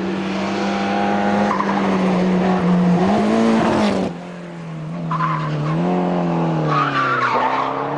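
Race car engine running hard on a hillclimb course, its pitch dipping and rising as the car brakes and accelerates, with short bursts of tyre squeal. The sound breaks off abruptly about four seconds in and another run of engine sound takes over.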